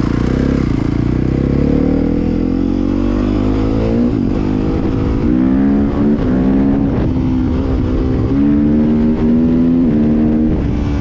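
Dirt bike engine accelerating on the move, its pitch climbing and then dropping back at each upshift, around six, eight and ten and a half seconds in.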